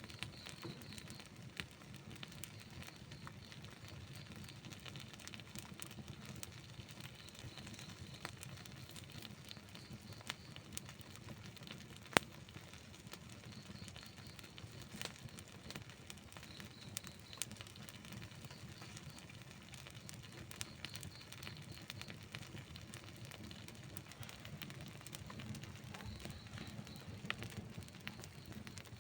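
Outdoor wood campfire burning: a steady low rushing of the flames with scattered crackles and pops from the burning wood, one sharp pop about twelve seconds in.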